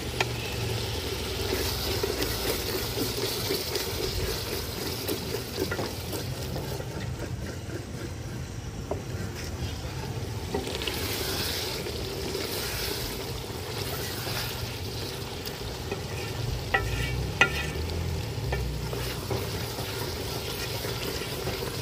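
Mutton and masala sizzling as they fry in a metal pot, stirred and scraped with a wooden spatula, with a few sharper knocks of the spatula against the pot about three quarters of the way through.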